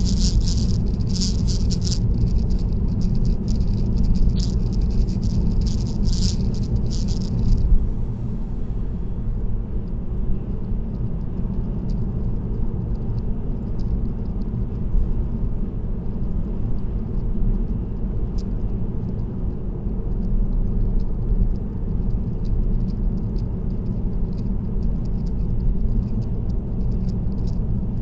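Steady low road and engine rumble of a car cruising on an expressway. For the first several seconds it carries a dense crackling rattle, which about eight seconds in thins to scattered faint ticks.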